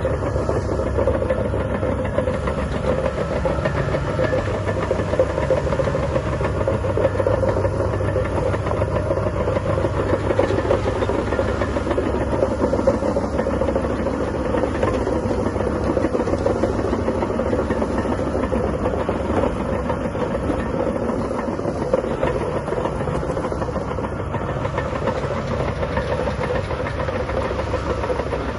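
Shantui DH17C3 crawler bulldozer's diesel engine running steadily under load, with its steel tracks clanking and rattling as it works.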